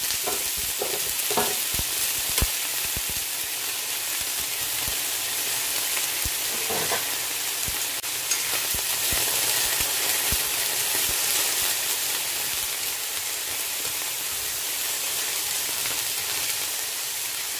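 Diced potatoes frying in hot olive oil in a frying pan, a steady sizzle, with a few light clicks in the first two seconds or so.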